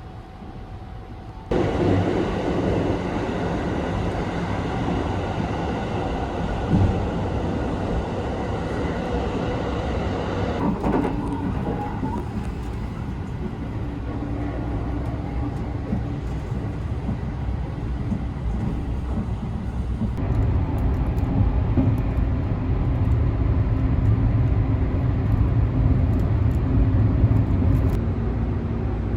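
Sunrise Izumo sleeper train running on the rails: a steady rumble of wheels and running gear that comes in suddenly about a second and a half in and turns deeper and heavier about two-thirds of the way through.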